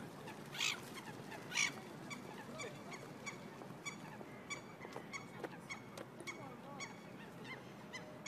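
Waterbirds calling: two loud, harsh calls in the first two seconds, then a regular series of short, high calls about three every two seconds.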